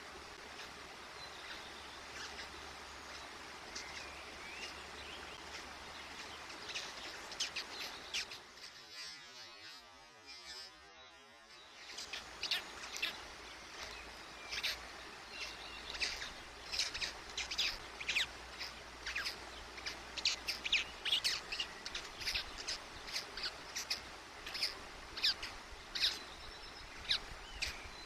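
Small birds chirping outdoors in many short, high calls, sparse at first and busier in the second half, over faint steady outdoor background noise; the sound briefly drops out about a third of the way in.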